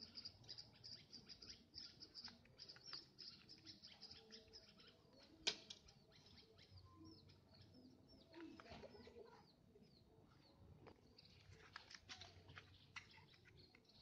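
Faint small birds chirping, many quick high chirps, thick at first, thinning out in the middle and picking up again near the end. A single sharp click about five and a half seconds in.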